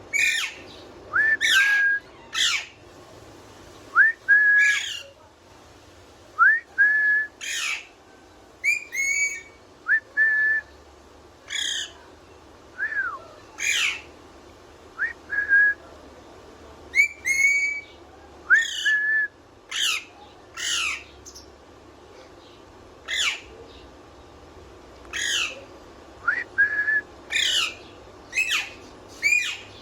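Pet parrot whistling: a long run of short calls, sharp downward-sweeping whistles mixed with brief level whistled notes, repeated about every second with a few short pauses.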